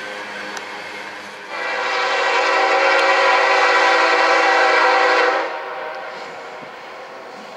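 Freight diesel locomotive's air horn sounding one long blast of about four seconds, a chord of several steady tones, over the rumble of the moving train.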